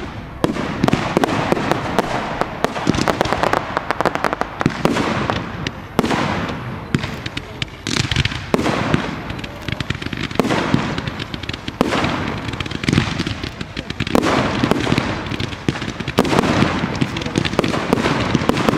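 Fireworks display barrage: a continuous rapid stream of bangs and crackling as volleys of comets and shells launch and burst, with heavier bangs every couple of seconds.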